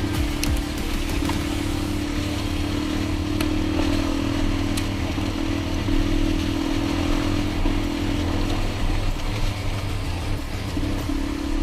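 Dirt bike engine running at a steady, nearly constant pitch while riding, with road noise.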